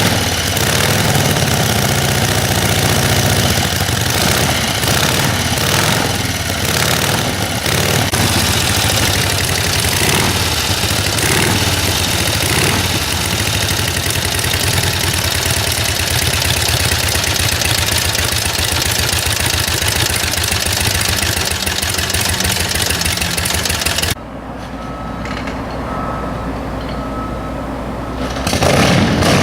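Indian 648 Big Base Scout's flathead V-twin engine running steadily. About 24 seconds in the sound drops off sharply and stays much quieter for about four seconds, then comes back at full level near the end.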